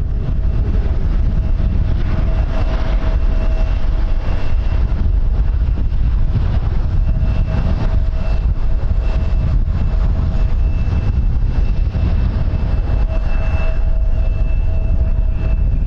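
Strong wind buffeting the microphone, with a steady whine from an aircraft's engines held throughout.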